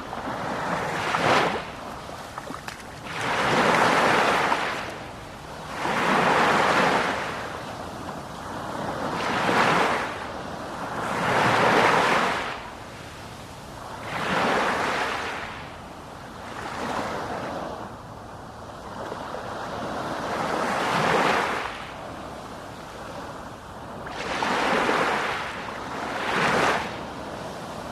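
Sea waves breaking on a shore, surging and receding in repeated swells every two to three seconds.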